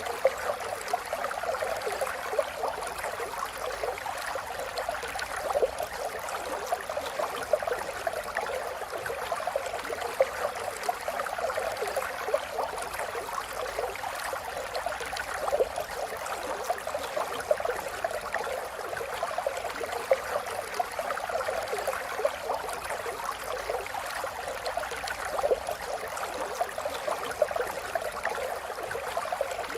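River water flowing steadily, with a continuous busy babble and splashing of a stream over rocks.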